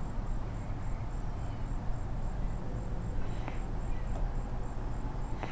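Steady, evenly pulsed high chirping of an insect, about three chirps a second, over a low steady hum, with a couple of faint light clicks.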